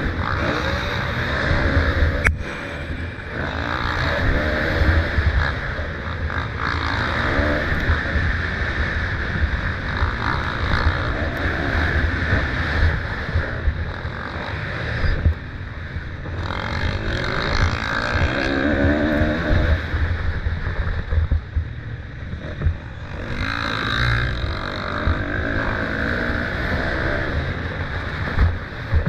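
Motocross bike engines revving up and down as riders race, rising and falling in pitch over a heavy low rumble of wind buffeting the microphone. A sharp click about two seconds in.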